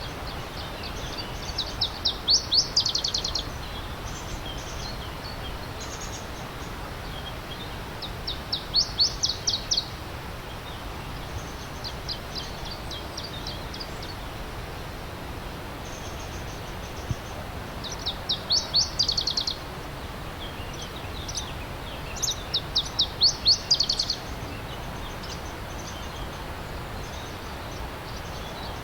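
A stream's steady rushing water, with a songbird singing a short trill of rapid, high repeated notes every few seconds.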